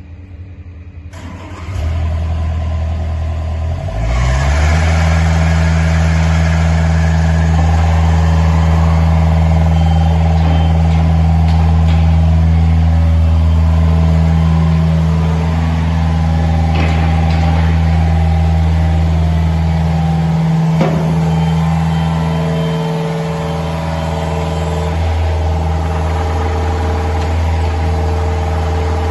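John Deere 50G mini excavator's diesel engine starting: a low sound comes in near two seconds, the engine picks up about four seconds in, then runs at a steady speed.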